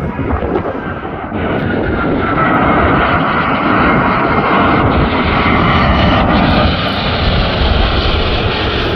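Airbus A380-842's four Rolls-Royce Trent 900 jet engines on landing approach. A loud rumble with a whine that falls in pitch as the aircraft passes, growing louder about a second and a half in and staying loud.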